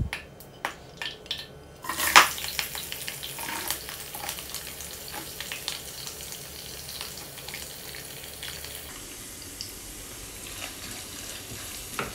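Chopped coconut pieces dropped into hot coconut oil in a small saucepan: a few light knocks, then a sudden sizzle about two seconds in that keeps going steadily as the coconut fries.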